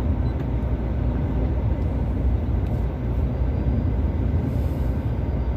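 Steady low rumble of a heavy truck's engine and road noise, heard from inside the cab while it cruises slowly.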